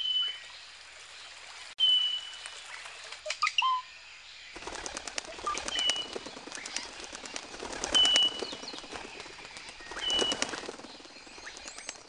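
Birds calling: a short, flat whistle repeats every two seconds or so among smaller chirps. From about four and a half seconds in, a rapid, dense clatter of wingbeats joins.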